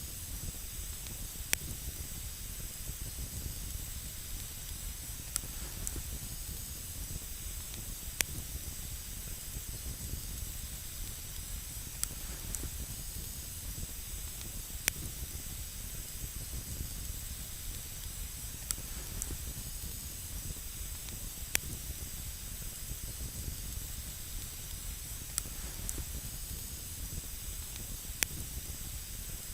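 Wood campfire burning: a steady hiss over a low rumble, broken by sharp, irregular crackles and pops every second or two.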